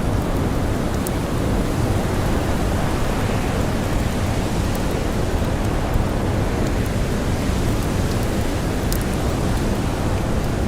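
Steady rush of blizzard wind and blowing snow, heaviest in the low rumble, with a few sharp campfire crackles scattered through it.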